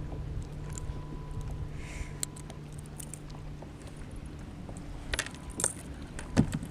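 Fishing tackle being handled: scattered light clicks and metallic clinks over a steady low hum, with a louder knock just before the end.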